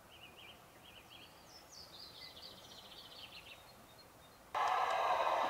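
A songbird singing: a few quick chirps, then a longer warbling phrase of high notes. Near the end a much louder steady noise with a few clicks cuts in abruptly.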